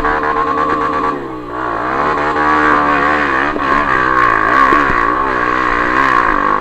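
Trail motorcycle engine running under throttle, its pitch dipping and rising as the rider works the throttle, then dropping away suddenly near the end.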